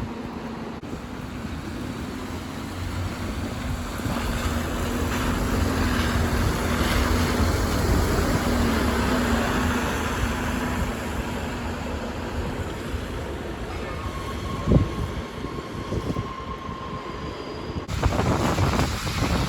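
City bus driving past: a steady engine drone that swells to a peak about halfway through and then eases off, with wind buffeting the microphone.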